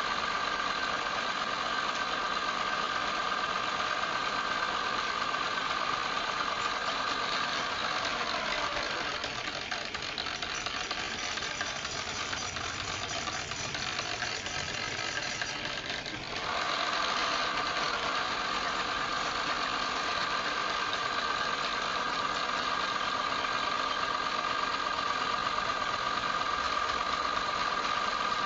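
Wood lathe running, a steady machine hum with a high whine. The whine fades for several seconds mid-way, giving way to a rougher sound, then comes back abruptly.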